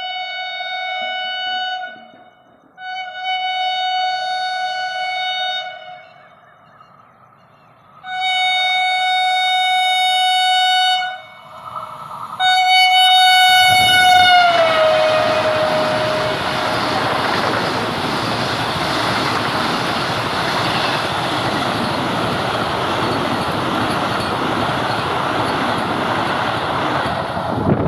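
Vande Bharat Express electric trainset sounding its horn in four long blasts as it approaches, the last blast falling in pitch as the train reaches and passes. Then the steady rushing noise of the train going by at high speed, which stops suddenly near the end.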